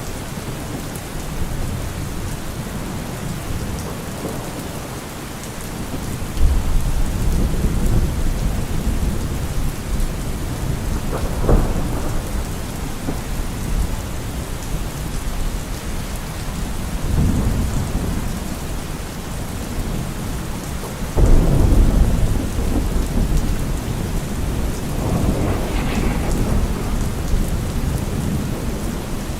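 Steady heavy rain with repeated rolls of thunder, several low rumbles swelling and fading. The loudest clap breaks in suddenly about two-thirds of the way through.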